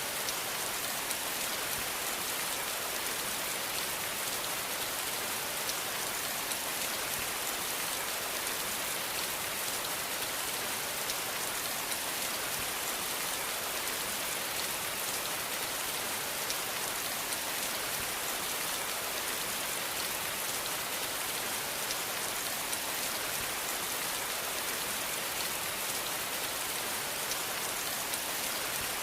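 Steady rain falling on a surface, an even hiss with many small drop taps and no thunder.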